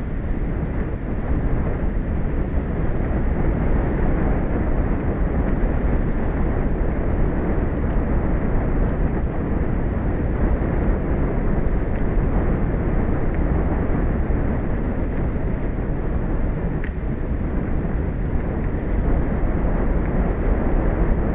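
Steady low rushing noise of wind and sea, even throughout with no distinct events.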